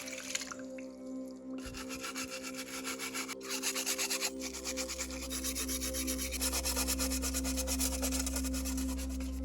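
Rapid, even abrasive rubbing strokes, like sanding, starting about a second and a half in, over a music bed of steady held tones.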